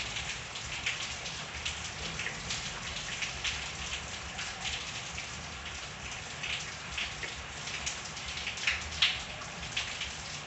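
Steady rain falling, with many separate drops striking close by on a hard surface, a few louder ones about nine seconds in.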